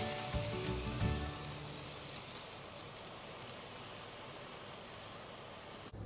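Background music that stops about a second in, with a steady hiss and faint clicking from an N-gauge Toei Asakusa Line 5300 series model train running along its track, growing slowly quieter as it moves away; the sound cuts off suddenly near the end.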